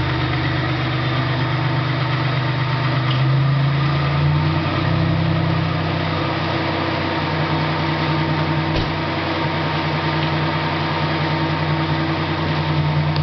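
1995 Buick Regal's V6 idling through a makeshift 5-inch diesel exhaust stack, a steady low drone. The pitch rises slightly about four seconds in, and there is a brief click near the end.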